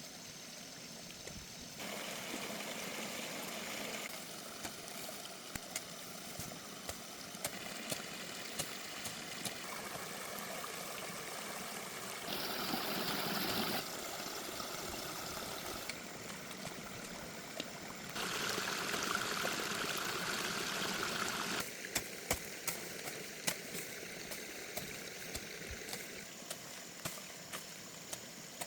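Running stream water, its sound changing abruptly every few seconds, with scattered light knocks throughout the middle and latter part.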